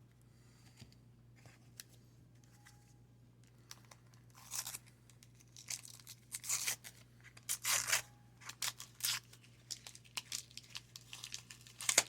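Wax-paper baseball card pack wrapper being torn open and crinkled. A string of short tearing and rustling sounds starts about four seconds in, after a quiet stretch.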